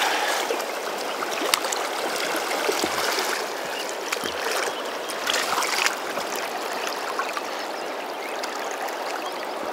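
Flowing water of the South Fork Snake River, a steady rushing hiss around a wading angler, with a few brief clicks about one and a half to six seconds in.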